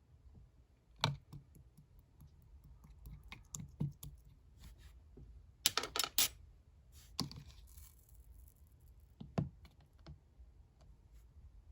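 Slime being pressed and played with by hand, giving scattered sticky clicks and pops, with a quick run of louder pops about six seconds in.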